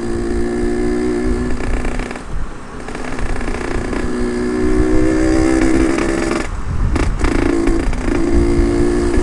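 Yamaha RX-King 135 two-stroke single-cylinder engine running under way, its note dropping about two seconds in, climbing again, then breaking off briefly twice near the end before picking up. A low rumble of wind on the helmet-mounted microphone runs underneath.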